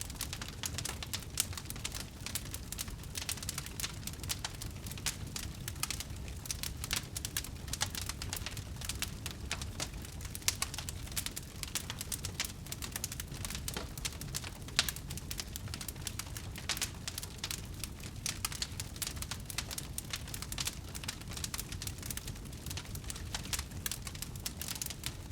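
Campfire of burning wood crackling steadily: dense, irregular pops and snaps over a low, steady rumble.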